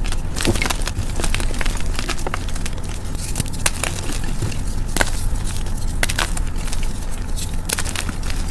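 Gym chalk being crushed: a run of irregular soft crunches and sharp crackles, over a steady low hum.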